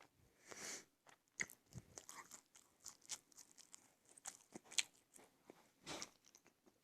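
Close-miked mukbang eating: chewing and biting food, heard as many short sharp clicks, with two longer rushes of noise, one about half a second in and one near the end.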